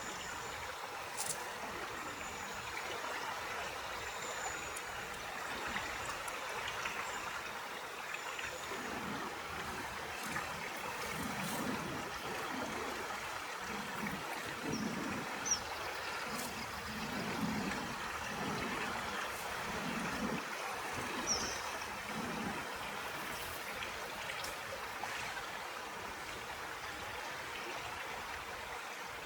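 Stream water flowing steadily, with low gurgles through the middle and a few brief, faint high chirps.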